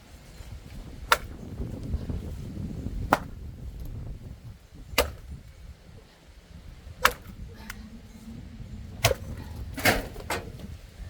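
A series of sharp, loud knocks, the main ones about two seconds apart, over a low rumble.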